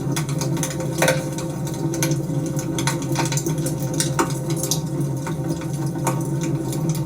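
Wood fire crackling, a constant patter of small crackles with a few sharper pops, about a second in and again past four seconds, over a steady low hum.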